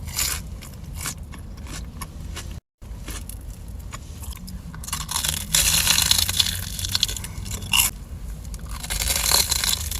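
Close-miked crunching and chewing of a crispy-battered Korean corn dog, loudest in a run of crunchy bites about halfway through. The sound drops out completely for an instant near the start.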